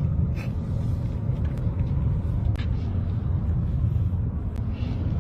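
Steady low rumble of a car on the move, with a few faint clicks, as people drive out to escape a wildfire.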